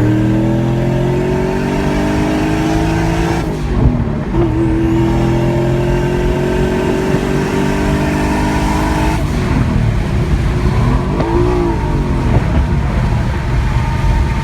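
A car engine accelerating hard, its note climbing steadily, with a brief break and a loud hit about four seconds in as it shifts gear, then a second long climb. About nine seconds in the engine note drops away, leaving rougher noise.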